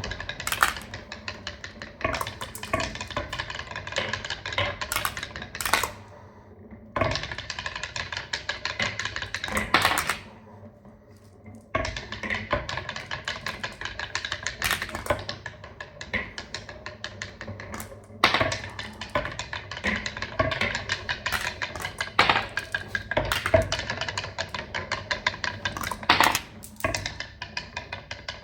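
Marbles rolling and clattering down a marble run track: a dense, rapid stream of small clicks and clacks with a few louder single knocks, pausing briefly twice partway through.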